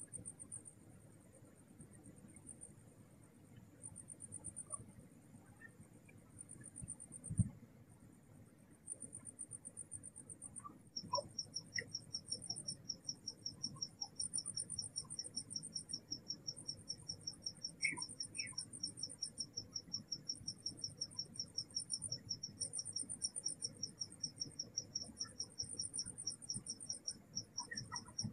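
Crickets chirping at night: one high-pitched trill comes in repeated bursts of a second or two, and a second, lower insect joins about a third of the way in with a steady, rapidly pulsed chirp. A single short low thump sounds about a quarter of the way in.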